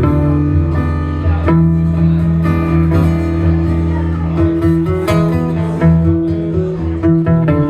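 Live acoustic guitar music, strummed and picked chords over sustained low bass notes, with no singing.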